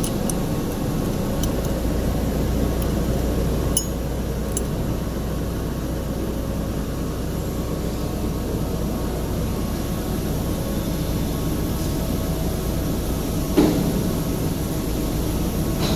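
Steady running noise of factory machinery with a constant low hum, broken by a few light clicks about four seconds in and a single knock near the end.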